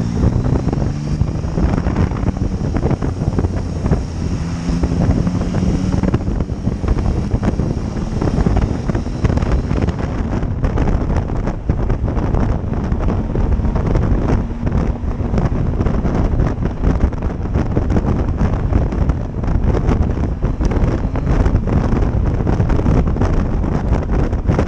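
Wind rushing over the microphone of a motorcycle at road speed, with the motorcycle's engine running underneath it.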